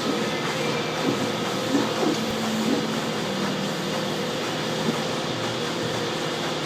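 A steady mechanical hum, with a few short, faint sounds laid over it between about one and three seconds in.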